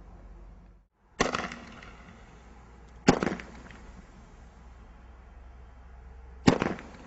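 Fireworks bursting overhead: three sharp bangs, about two and three seconds apart, each trailing off in a rumbling echo.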